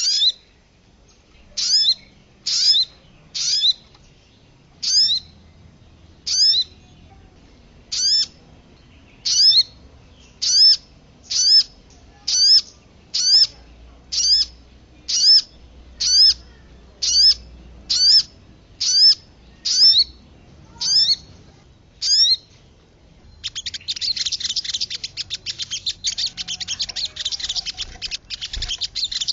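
Bird-lure recording of sogon and kemade calls. A sharp, high call note repeats about once a second and then a little faster. From about 23 seconds in it gives way to a fast, continuous, noisy chatter.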